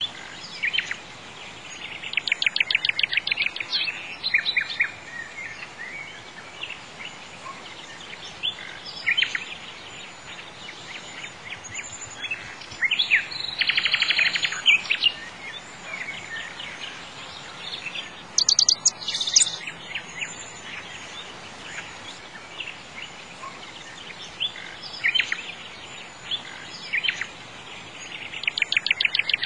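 Birdsong: chirps and fast trilling phrases come every few seconds over a steady faint hiss.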